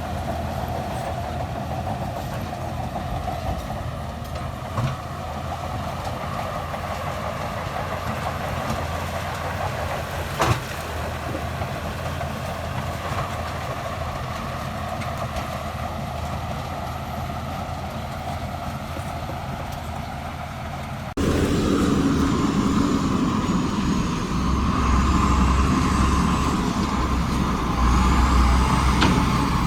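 Heavy diesel construction machinery running steadily, with two short knocks. About 21 s in the sound cuts abruptly to a louder, deeper engine with a faint high whine that rises and falls.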